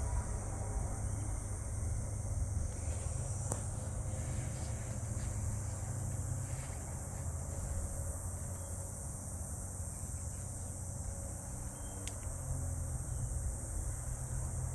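Small USB-powered DC ceiling fan running steadily: a low hum under a steady high hiss, with a couple of faint clicks.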